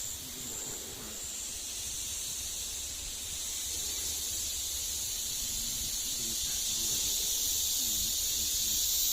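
Cicadas calling: a steady, high-pitched shrill drone that swells louder from about a third of the way in.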